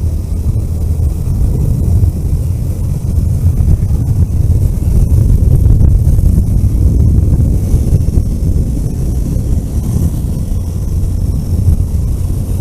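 Vehicle driving along a road: steady low rumble of engine and road noise, with wind buffeting the microphone.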